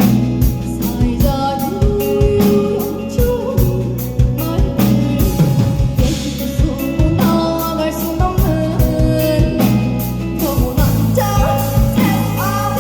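Live band playing a driving rock-tinged song: drum kit keeping a steady beat over bass and guitar, with a woman's voice singing long, bending notes.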